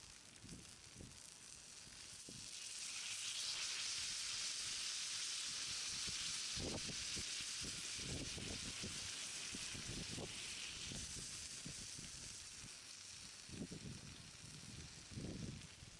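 Food sizzling on a hot iron plate over a small wood fire. The sizzle swells about three seconds in and eases off near the end, with light knocks and crackles underneath.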